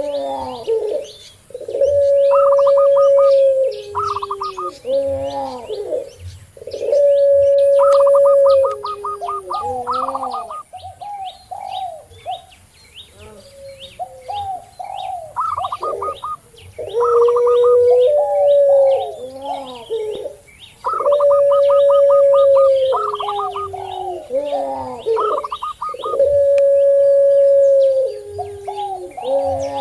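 Puter pelung (ringneck doves bred for a long voice) and zebra doves (perkutut) cooing together. Long held coos step down in pitch at the end and repeat every few seconds, overlapped by quick runs of short, higher coo notes. Small birds chirp steadily in the background.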